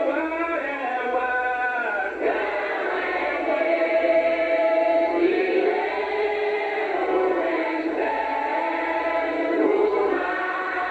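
A group of voices singing together, choir-style, with long held notes.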